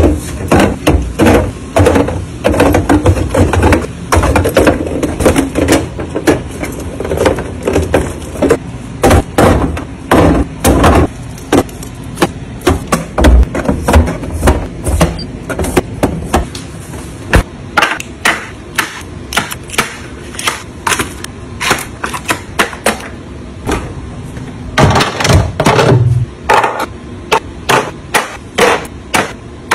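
Irregular clicks, taps and knocks of hard household items being handled and set down, often several a second, with a louder, busier stretch near the end.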